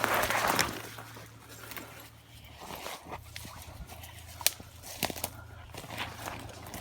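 Footsteps and rustling through dry leaves and forest brush. A loud crunch of rustling comes at the start, then scattered small crackles and twig snaps.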